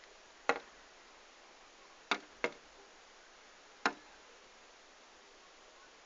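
A bird tapping at window glass: four sharp taps, two of them close together in the middle, over a faint room hiss.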